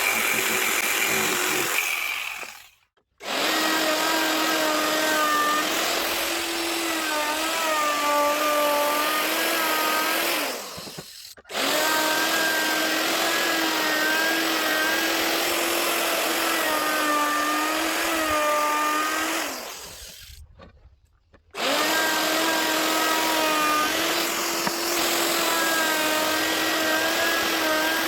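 Handheld electric power tool working wood: a steady motor whine over a loud cutting hiss, the pitch sagging and recovering as it bites. It dies away and starts again twice.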